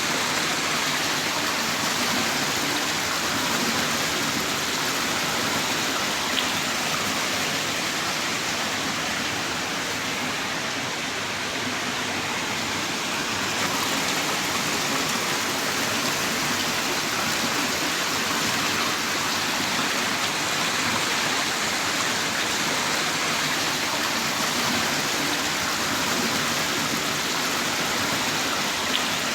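Heavy rain falling in a steady downpour, a dense even hiss of drops with no let-up.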